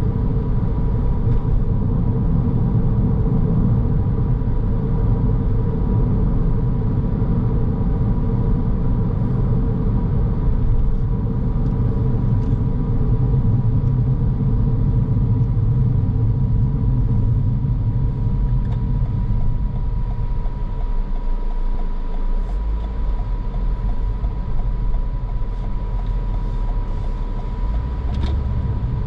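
A car driving: steady engine and road rumble with tyre noise and a faint steady high tone. The low rumble drops off about two-thirds of the way through.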